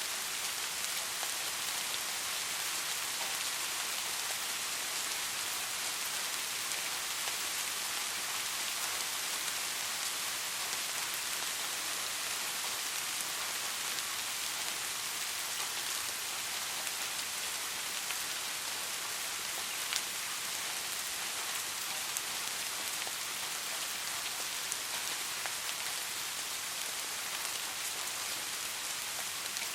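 Steady soft rain: an even hiss of falling rain with scattered individual drops ticking on a surface, one slightly sharper drop about two-thirds of the way through.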